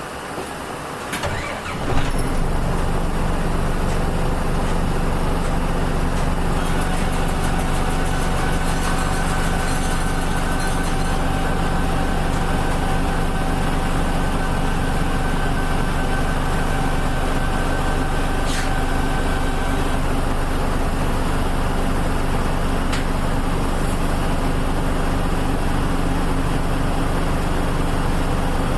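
City bus diesel engine (Nishitetsu KL-UA452MAN) starting up about two seconds in, then running steadily at an unchanging pitch, as if idling.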